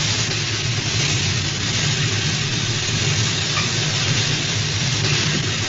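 Steady low mechanical hum under an even hiss, the submarine-interior machinery effect of an old television soundtrack during a dive.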